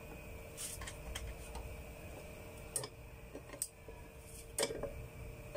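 A Kaisa Villa ice crusher's motor humming steadily without turning, with a few sharp clicks. Humming without spinning is, the technician says, mostly down to a weakened start capacitor.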